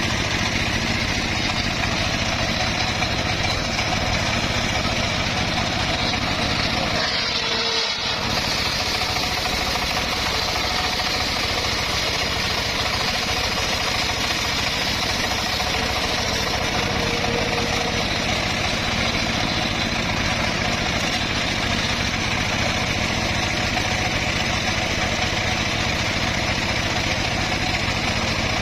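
Engine-driven circular sawmill running steadily, a continuous mechanical drone with no pauses. There is a brief change in the sound about eight seconds in.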